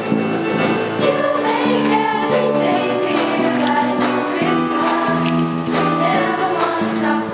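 Middle school choir singing a sustained song, with steady low notes beneath the voices.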